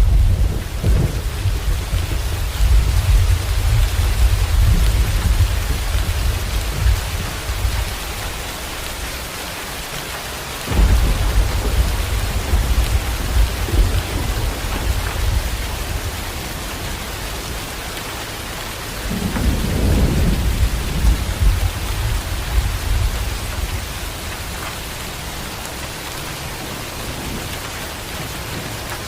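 Heavy rain pouring steadily in a thunderstorm, with rolling thunder: a rumble at the start, a second that breaks in suddenly about a third of the way through, and a third about two-thirds through, each dying away slowly under the rain.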